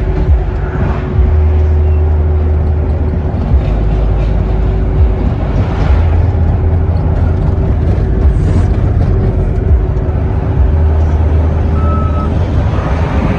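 Steady low rumble of road vehicle noise, with a constant hum and a few small knocks.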